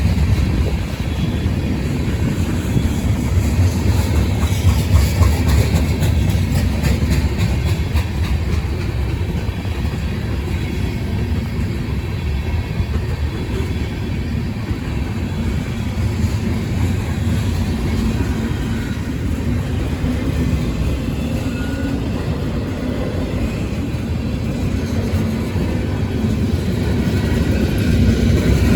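CSX freight train rolling past with a steady, deep rumble of wheels on rail. Faint clicks come through now and then, and the sound grows a little louder near the end.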